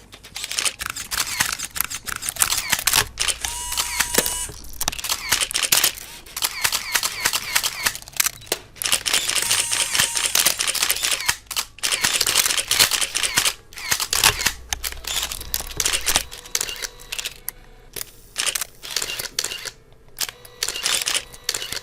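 Camera shutter clicking in rapid, continuous bursts, like a camera firing frames in quick succession, with a short steady beep about four seconds in and again about ten seconds in.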